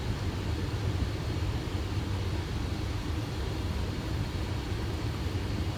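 Steady low rumble and air noise inside a Boeing 737 cockpit on final approach, with the gear down and flaps at 30.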